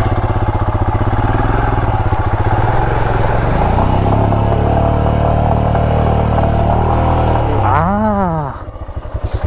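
Royal Enfield Himalayan's single-cylinder engine running in a low gear, pulling harder from a few seconds in, then easing off near the end with a quick rise and fall of revs.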